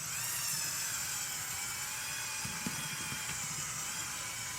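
Lego Technic tractor's electric motors and gear train whining steadily under load as it pulls a weighted puller. The whine starts suddenly, rises briefly in pitch, then holds level.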